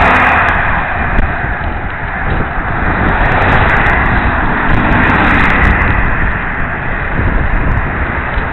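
Wind buffeting a bicycle helmet-mounted camera's microphone while riding: a loud, steady rushing noise that swells and eases a little.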